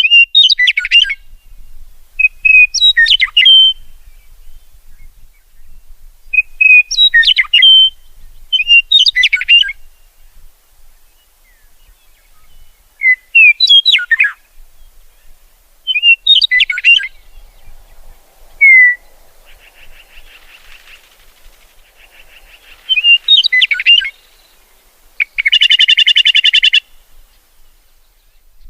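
Songbird singing: short, varied whistled phrases repeated every two to three seconds, with a faint buzzy trill in the middle and a loud, rapid rattling trill near the end.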